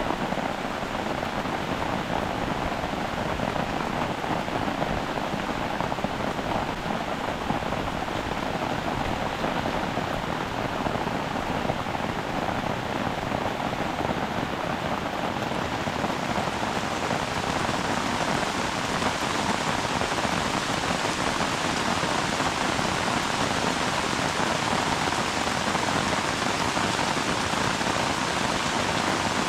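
Heavy tropical rain falling steadily, a dense even hiss that grows sharper about halfway through.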